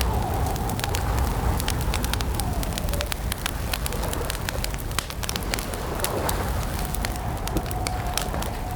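Campfire crackling steadily with sharp irregular pops over a low rumble. A faint, drawn-out wavering tone sits in the background, fading out early on and returning about seven seconds in.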